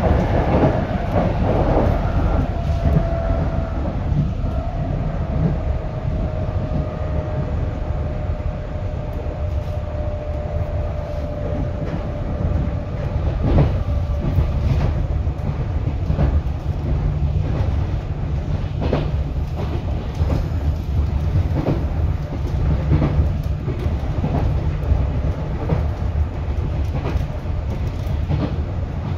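Onboard running sound of a JR 211 series electric multiple unit: a steady low rumble of wheels on rail, broken by scattered clicks from rail joints. A faint whine slowly falls in pitch over the first ten seconds or so.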